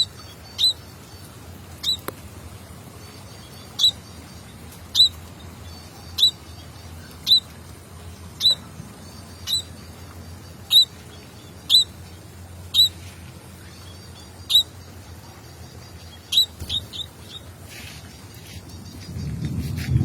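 Small bird chirping: single short, sharp notes, each a quick falling hook, repeated about once a second, with a fast run of three near the end. A low rumble comes in just before the end.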